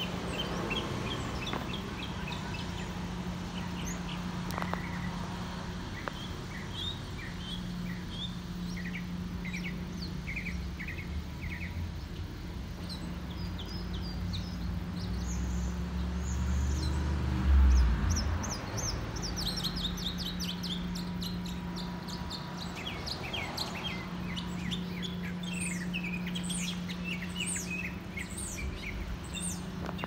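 Several small birds chirping in short repeated notes, the chirping growing busier and higher in the second half, over a steady low hum. A brief low thump about halfway through is the loudest moment.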